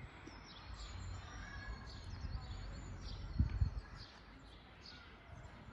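Forest songbirds chirping and calling, many short high falling notes scattered throughout over a low rumble. Two low thumps about three and a half seconds in are the loudest sounds.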